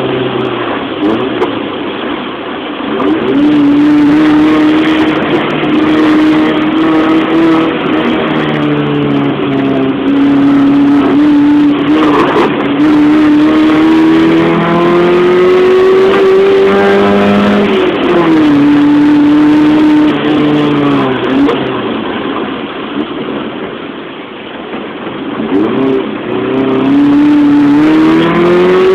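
Race car engine heard from inside the cabin of a Mitsubishi Lancer boxtype, running loud under load: its note climbs through each gear and drops back at the shifts and lifts, with a quieter stretch off the throttle a little over two-thirds of the way through.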